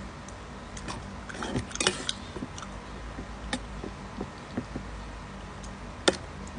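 Eating with a spoon from a bowl: scattered small clinks and clicks of utensil on dish, a cluster of them about two seconds in and one sharp click near the end.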